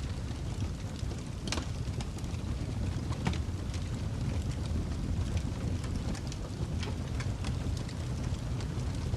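Fireplace fire crackling: a steady low rumble of burning with irregular sharp pops and snaps scattered through it.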